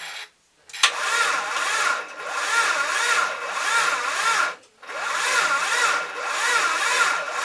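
Starter motor cranking the Mitsubishi FTO's 6A12 V6 in two attempts of about four and three and a half seconds, its whine rising and falling with each compression stroke. The engine does not catch on either try.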